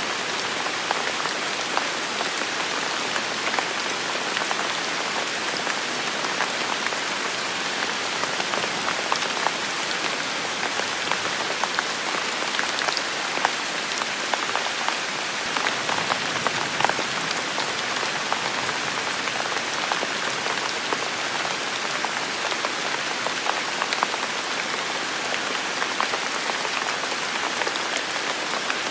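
Steady heavy rain falling on a surface, a dense even hiss with many individual drops ticking through it.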